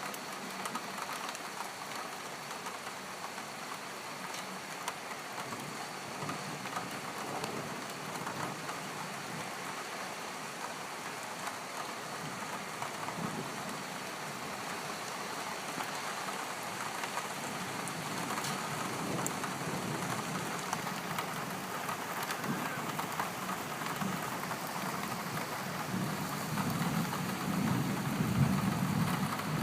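Rain falling steadily during a thunderstorm, with a low rumble of thunder swelling near the end.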